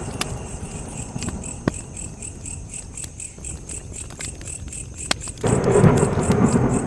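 Campfire crackling with scattered sharp pops, over crickets chirping in a steady quick pulse. A low rumble swells up about five and a half seconds in.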